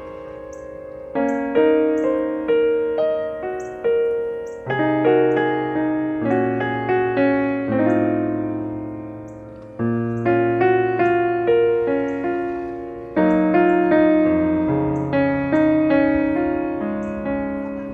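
Background piano music: slow chords and a melody, each note struck and fading away, with low bass notes joining about five seconds in.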